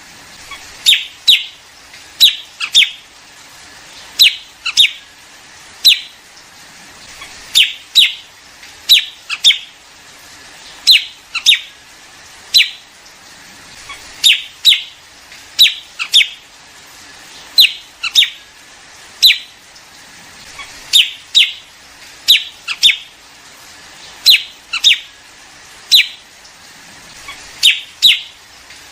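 Liếu điếu bird calls played from a lure recording: short, sharp, high calls, mostly in quick pairs or threes, repeating about once a second with no let-up.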